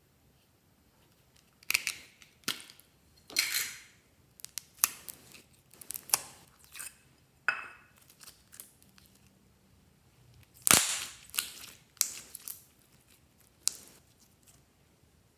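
Glossy slime being pressed and stretched by hand, giving off irregular sharp pops and clicks as air pockets burst; the loudest pop comes a little past two-thirds of the way in.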